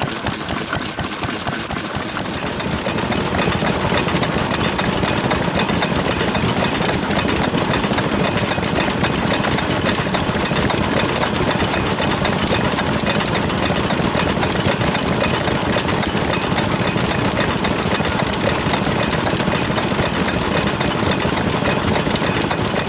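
Vintage stationary engine running steadily with a rapid, even chugging, getting a little louder about three seconds in.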